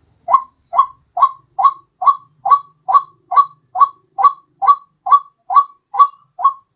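White-breasted waterhen (ruak-ruak) call played as a bird-lure recording: a steady series of about fifteen short rising notes, roughly two a second.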